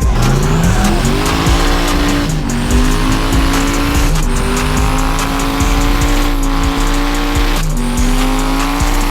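Diesel pickup truck engine revving up over about the first second and a half, then held at high revs for several seconds, dipping briefly three times.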